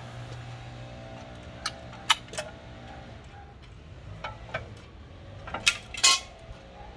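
Tools and metal brake parts being handled during a brake job, giving a string of sharp clinks and knocks. The loudest is a quick rattling cluster about six seconds in, over a steady low hum.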